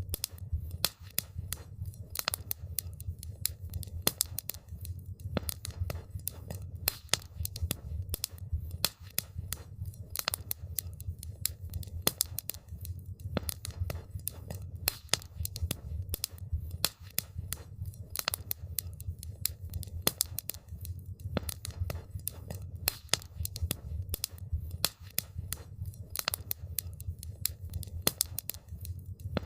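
Wood campfire crackling: a dense, irregular stream of sharp snaps and pops, several a second, over a steady low rumble of the burning fire.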